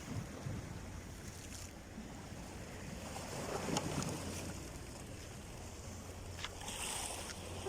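Steady rushing wind and sea noise with a low hum underneath and a few faint clicks.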